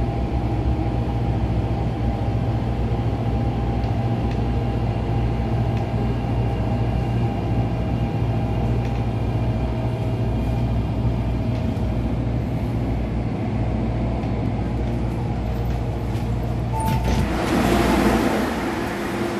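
Inside an MTR A-Train electric multiple unit standing at or easing into a platform: a steady low hum of the train's electrical and ventilation equipment, with a few faint steady whines over it. Near the end a short beep is followed by a loud rush of hissing noise lasting about two seconds.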